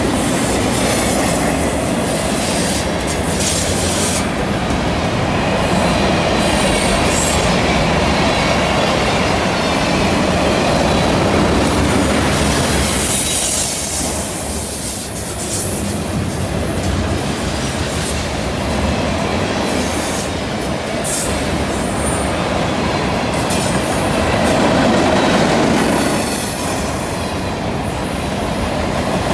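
Freight cars of a mixed freight train rolling past close by on a curve: steady wheel-on-rail rumble with occasional wheel clicks and high wheel-flange squeal from the curve.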